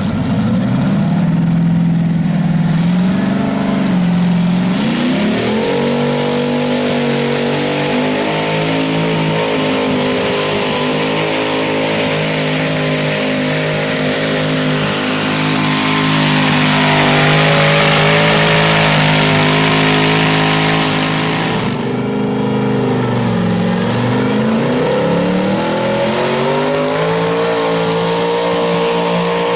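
Modified garden tractor pulling engine running hard at high revs, its pitch sagging and climbing back twice, about four seconds in and again past twenty seconds.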